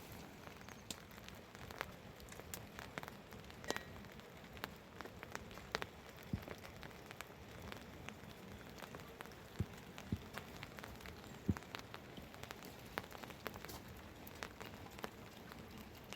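Rain falling steadily, with irregular louder drops striking nearby surfaces.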